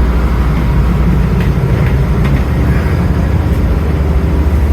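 Volvo Penta MD50 marine diesel, a TMD50 with its faulty turbocharger removed, running steadily and smoothly at about 700 RPM under way.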